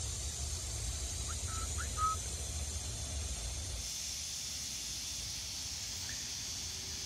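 Woodland ambience: a few short, clear bird chirps about one and a half to two seconds in, over a steady high hiss. A low rumble on the microphone drops away a little past halfway.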